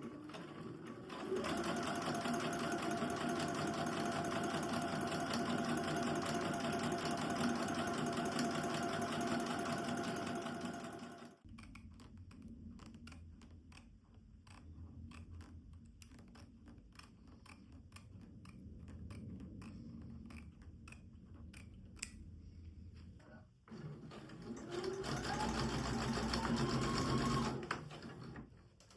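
Sewing machine stitching in a fast, steady run for about ten seconds. It then drops to a quieter stretch of rapid ticking, and runs fast again near the end.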